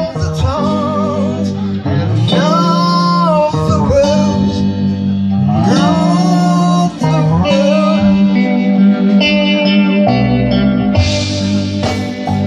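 Live band playing a slow song, electric guitar and bass to the fore with a bending melodic line above a steady bass.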